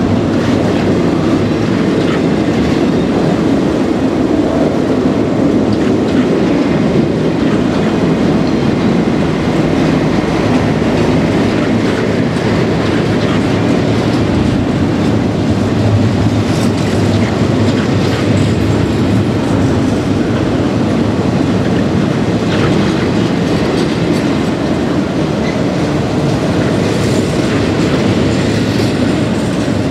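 Intermodal freight cars of a Florida East Coast Railway train rolling past at speed: a steady, loud rumble of steel wheels on rail, with scattered clicks.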